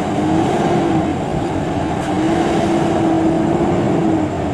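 Heavy truck engine running with a steady droning tone that wavers slightly in pitch.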